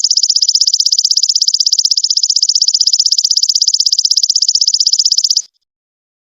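Golden locust (belalang emas) calling: a loud, high-pitched rapid pulsed buzz that lasts about five and a half seconds and then cuts off abruptly.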